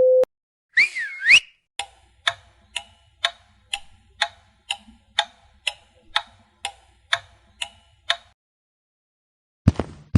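Clock ticking in an even tick-tock, about two ticks a second for some six seconds, then stopping. It is preceded by a brief swooping whistle-like sound, and a quicker series of sharp knocks starts near the end.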